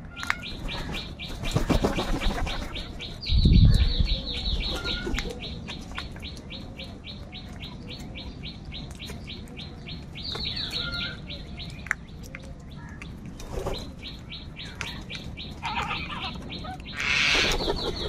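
A small bird's rapid, even series of high chirps, about five a second, running almost without a break and starting afresh with a falling note about three and ten seconds in. A brief low thump comes about three and a half seconds in, and a crow's harsh call near the end.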